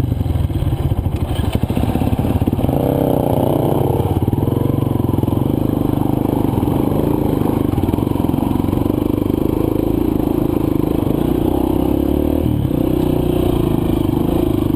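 Four-stroke dirt bike engine running steadily at low revs, with a few small wavers in pitch from the throttle.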